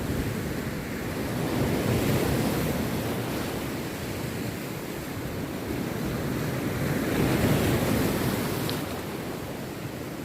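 Rough sea surf breaking on a beach, the wash swelling twice, about two seconds in and again near eight seconds, then ebbing, with some wind on the microphone.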